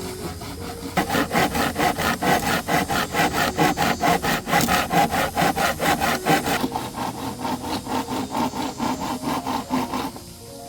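Handsaw cutting through wood in quick, even back-and-forth strokes. The sawing starts about a second in and stops briefly near the end.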